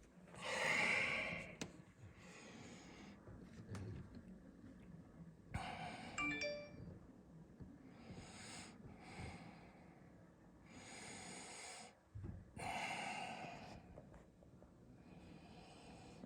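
Heavy breathing of a person trudging through deep snow: a loud, breathy swell every two to three seconds.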